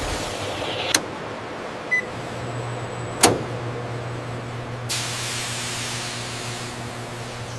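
Steady mechanical hum over a noisy background, with a few sharp clicks; the loudest is a little over three seconds in.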